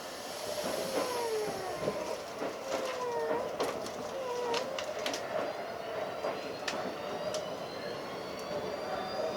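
Running sound inside a Keikyu 1500 series field-chopper electric train car: a rising whine as the train gathers speed, with repeated falling tones and sharp clicks from the wheels and track.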